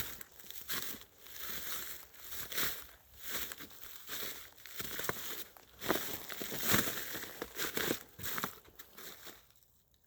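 Footsteps crunching and rustling over the ground, about one step a second, stopping just before the end.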